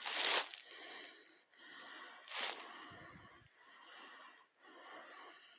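A person breathing hard close to the microphone, with two loud exhales, one at the start and one about two and a half seconds in, and fainter breaths between.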